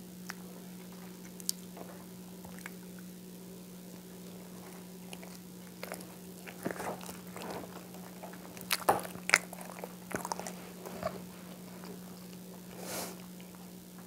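Close-miked eating sounds: chewing with scattered wet mouth clicks, thickest in the middle, over a steady low hum. A short soft rustle near the end.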